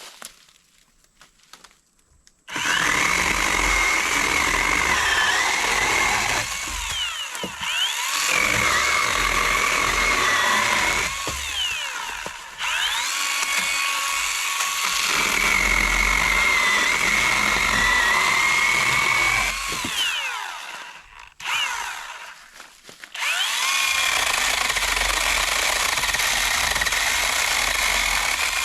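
Cordless electric chainsaw, powered by two 20-volt batteries, starting up about two and a half seconds in and cutting through firewood. Its whine wavers under load, and it winds down and spins back up several times.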